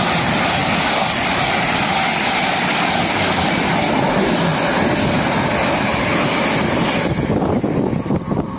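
Class 800-series intercity express train passing through the station at speed, a loud steady rush of wheels and air that fades away about seven seconds in. It runs over an unexpected crossover as it passes.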